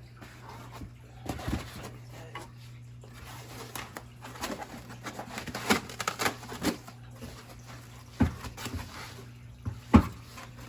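Irregular knocks, clicks and rustling as 3D printer parts and packaging are handled during unboxing, with a sharp knock near the end, over a steady low hum.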